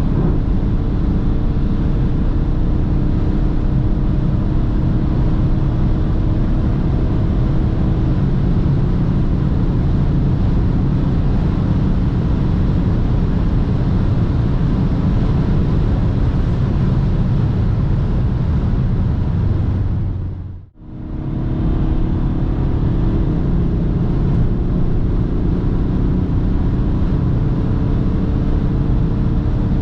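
BMW 330d xDrive's straight-six diesel pulling hard at high speed under heavy road and wind noise, its engine note climbing slowly in pitch and dropping once at an upshift about eight seconds in, then climbing again. About two-thirds of the way through, the sound fades out almost completely for a moment and comes straight back.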